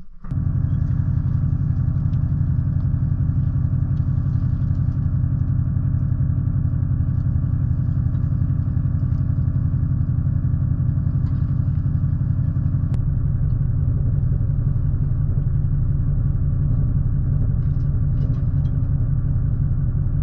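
An engine running steadily at an even speed, its note shifting slightly about two-thirds of the way through.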